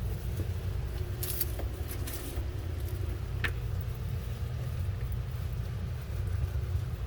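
Steady low rumble of running machinery, with a few light clinks and clicks of refrigerator racks being handled and set back in place.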